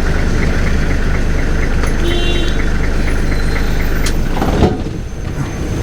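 Safari vehicle's engine running steadily, heard from inside the vehicle. Near the end there is a knock and the sound goes briefly quieter.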